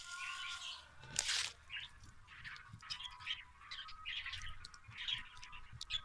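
Small birds chirping in short, scattered calls, with the crinkle of a plastic seed bag handled twice, about a second in and at the end, louder than the chirps.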